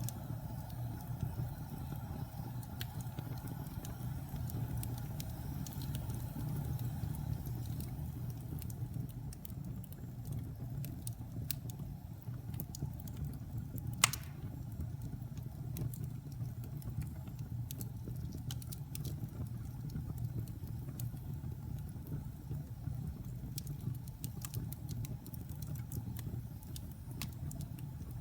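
Wood fire burning in a fireplace: a steady low roar of flames with scattered crackles and one loud pop about halfway through.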